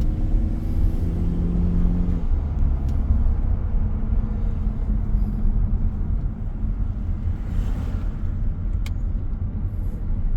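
Car engine and road rumble heard inside a moving car; the engine note climbs slightly as it pulls for about two seconds, then settles into steady driving noise.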